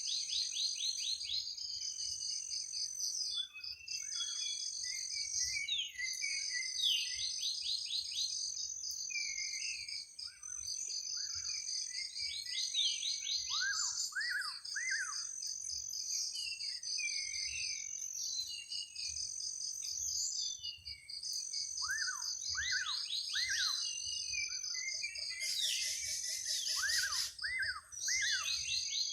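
Several birds chirping and calling in a forest, with quick sweeping notes repeated in short series, over a constant high insect trill.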